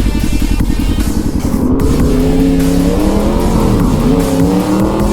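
Motorcycle engine revving, its pitch climbing from about two seconds in, dropping briefly near four seconds and climbing again as the throttle is worked for wheelies.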